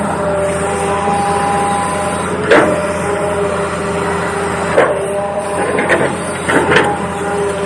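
Toy RC excavator's small electric motors whining steadily, the pitch stepping now and then, with a few sharp knocks and clatters of the plastic machine at work.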